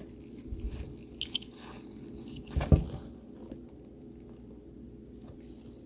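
Small clicks and taps from tools handled at a soldering bench, with the loudest knock about two and a half seconds in, over a faint steady low hum.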